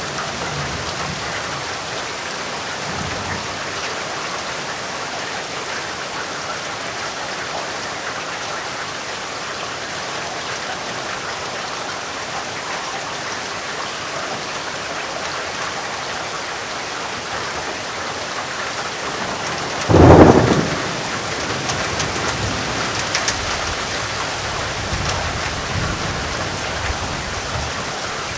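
Steady rain falling on a surface, with a loud thunderclap about two-thirds of the way through that rolls on as a low rumble with a few crackles.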